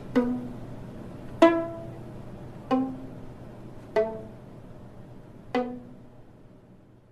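Violin played pizzicato: five single plucked notes spaced a second or so apart, each ringing briefly and dying away, over a faint low hum that fades out near the end.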